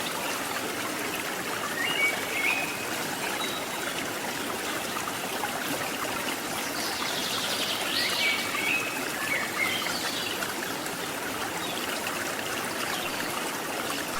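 Steady rush of a waterfall and its river flowing over rocks. A few short, high chirps come through about two seconds in and again around eight to ten seconds.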